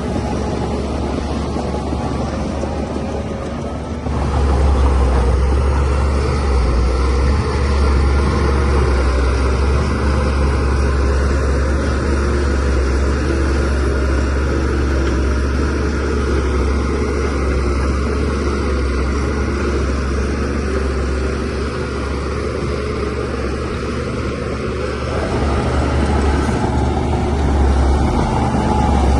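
DH17C3 crawler bulldozer's diesel engine running under load with a steady low drone. It grows louder about four seconds in, eases slightly, then rises again near the end.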